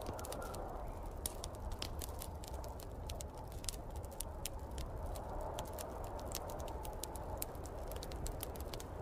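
Wood fire crackling with frequent small pops, over a steady rushing wind of a snowstorm.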